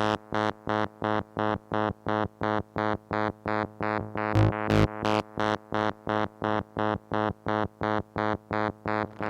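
Moog Mother-32 analog synthesizer playing a steady run of short, evenly spaced notes on one pitch, about three a second, their brightness shifting from note to note under modulation from a Comdyna GP-6 analog computer. A pair of notes a little past the middle are louder and brighter.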